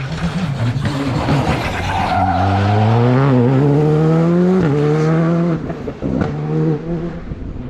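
Rally car coming closer at full throttle, its engine pitch climbing steadily and then dropping at a gear change about four and a half seconds in. The note holds, then breaks up as the throttle is lifted near the end.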